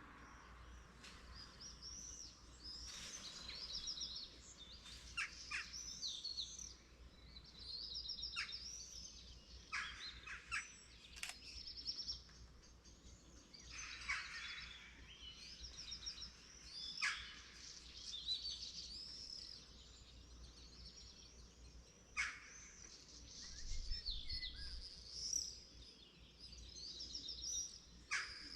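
Dawn chorus of several songbirds singing short, high, trilled phrases again and again, with sharp falling calls breaking in every few seconds.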